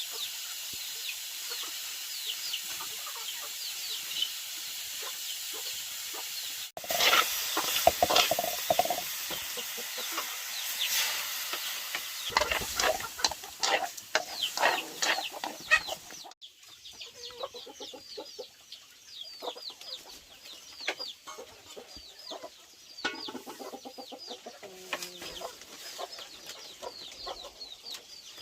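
Chickens clucking, with many short calls throughout; the sound changes abruptly twice, about seven and sixteen seconds in.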